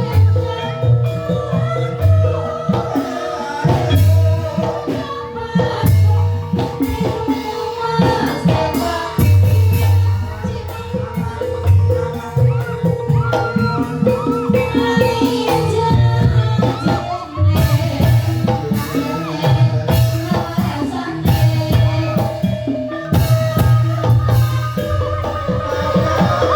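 Banyumas gamelan music for an ebeg dance: metallophones ringing over a steady pattern of kendang drum beats, with a voice singing above.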